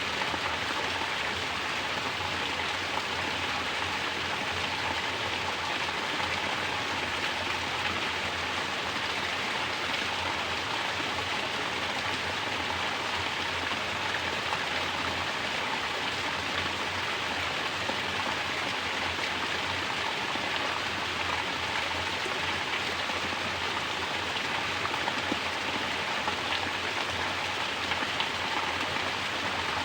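Mountain spring water falling from a natural shower and splashing steadily, with no change in level.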